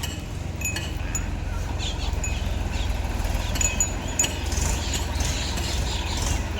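Diesel engine of heavy machinery running steadily with a low rumble, with scattered light metallic clinks and chirps over it.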